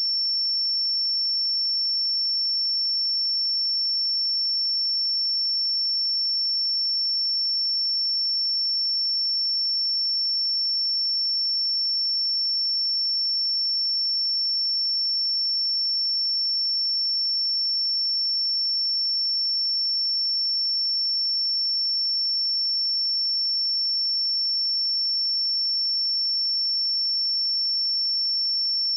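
A single steady 5425 Hz sine-wave test tone, a high-pitched pure whistle-like tone held unchanged at constant level.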